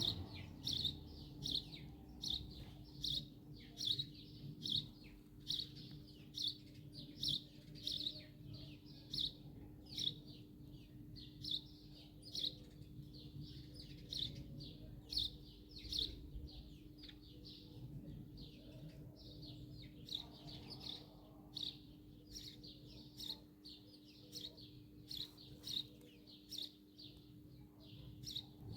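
A small bird chirping over and over: short, high chirps about twice a second, keeping up a steady rhythm.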